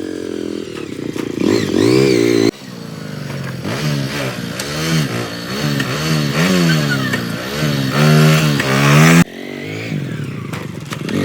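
An engine revving up and down again and again, its pitch rising and falling, with abrupt breaks about two and a half seconds in and again near nine seconds.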